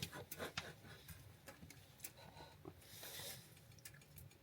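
Faint scattered small clicks and light taps, close to silence, with more of them in the first second.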